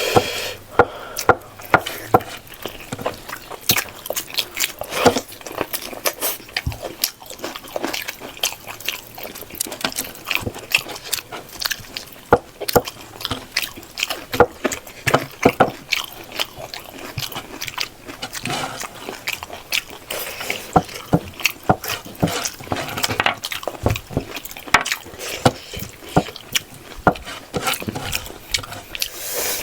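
Close-miked mukbang eating: a person chewing and smacking mouthfuls of rice and pork leg gravy, with many quick, irregular wet clicks and smacks.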